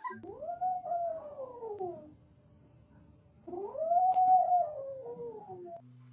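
A cat giving two long, drawn-out yowls, each about two seconds long, rising in pitch and then sliding back down, with a short pause between them.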